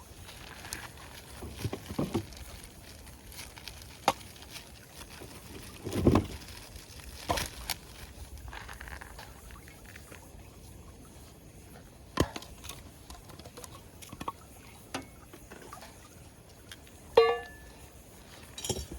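Scattered knocks and clicks of camp cooking gear being handled, with a heavier thump about six seconds in and a single ringing metal-or-glass clink near the end.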